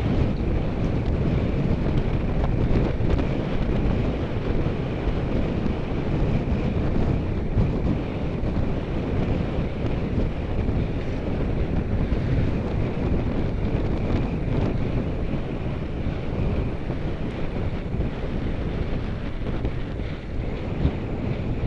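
Steady wind rushing over the microphone of a camera on a moving bicycle, a constant loud noise with no breaks.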